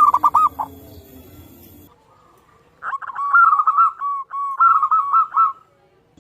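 Zebra dove cooing: a quick run of staccato coos right at the start, then after a pause a longer phrase of rapid coos with a held note, lasting about three seconds.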